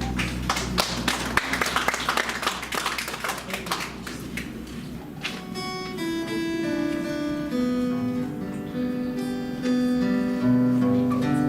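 Worship band playing an instrumental lead-in on acoustic guitar: quick strumming for the first few seconds, then held, sustained chords from about halfway through, leading into the sung verse.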